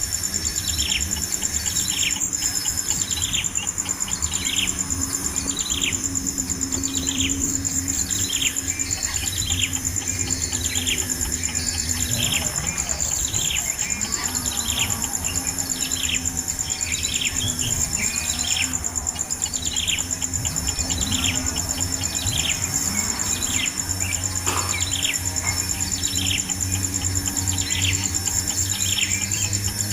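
A bird repeating a short, falling chirp at an even pace, about three calls every two seconds, over a steady high-pitched insect drone.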